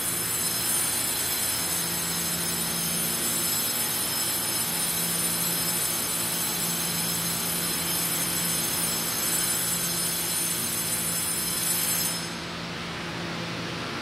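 Interior noise of an EMU700-series electric commuter train car: a steady rumble and hiss with a faint hum and a high thin whine. About 12 seconds in the whine cuts off and the sound drops to a quieter steady hum like ventilation.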